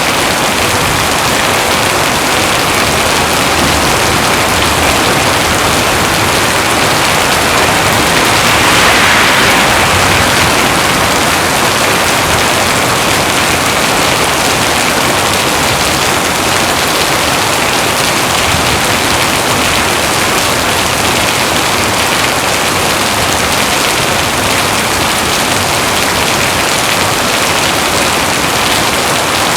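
Heavy rain falling steadily, swelling briefly about nine seconds in.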